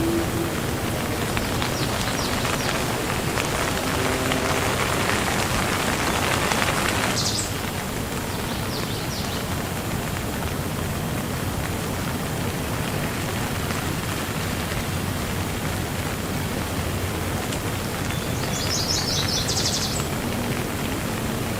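Steady rain falling. It is heavier for the first seven seconds or so, then suddenly lighter. Short, rapid, high-pitched chirping trills come through a few times, most clearly near the end.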